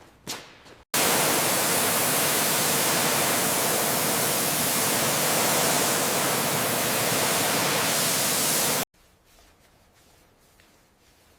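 Steady, loud rushing hiss of a compressed-air jet, running for about eight seconds and starting and stopping abruptly.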